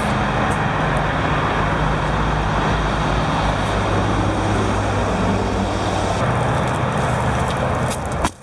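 Motor vehicle engine running close by over steady road traffic noise, its low hum shifting about six seconds in; the sound cuts off abruptly near the end.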